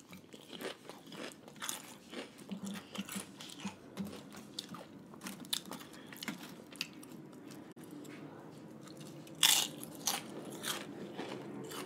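Close-miked crunching and chewing of crisp fried wonton-chip nachos topped with raw ahi poke and sauces: a run of short crackly crunches with wetter chewing between, and a louder crunch from a fresh bite about nine and a half seconds in.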